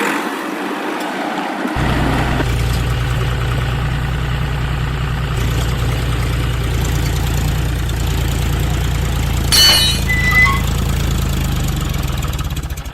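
Tractor engine starting up about two seconds in and then idling with a steady low, even chug. A brief click and a short high beep come near ten seconds in.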